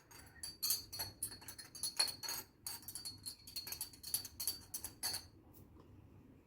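Rapid light clicking and jingling, like small metal or glass objects knocking together, that stops about five seconds in.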